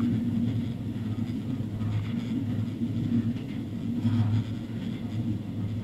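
Running noise inside a JR Hokkaido H100 DECMO diesel-electric railcar travelling at speed: a steady low hum with wheel-on-rail rumble.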